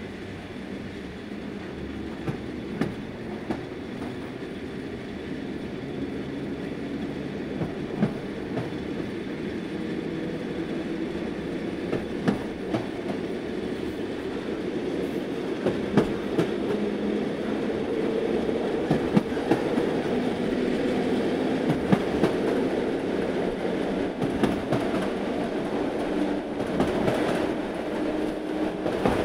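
Talgo sleeper train running, heard from inside the carriage: a steady rumble with irregular sharp clicks from the wheels and a few low droning tones. It grows gradually louder throughout.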